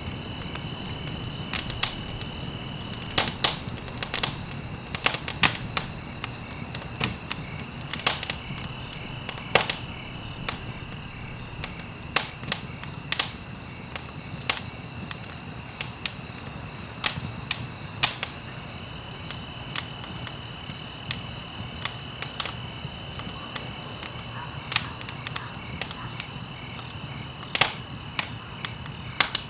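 Wood fire burning in a fireplace: irregular sharp crackles and pops a few times a second over a low steady rumble of flame. A steady high-pitched whine runs underneath.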